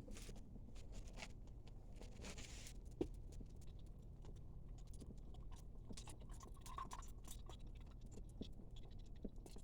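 Faint steady low hum with scattered small crackles and ticks, as the last side of a forged chipping hammer is heated for hardening.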